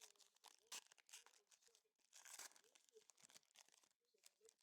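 Faint crinkling and tearing of a trading-card pack wrapper, with cards being handled; a slightly louder rustle comes about two seconds in.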